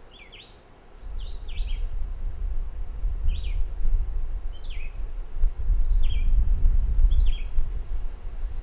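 A bird giving short, repeated chirps, about one a second, over a loud low rumble that starts about a second in.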